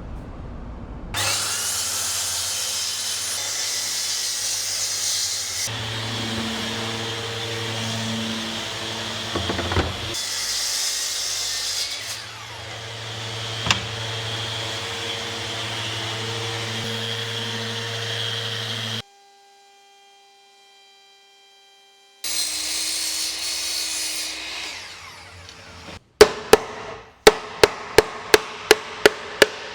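Woodworking power tools running on wood in a series of short cut-together clips, each a steady machine noise with a high hiss. Near the end comes a rapid, regular series of sharp knocks, about three a second.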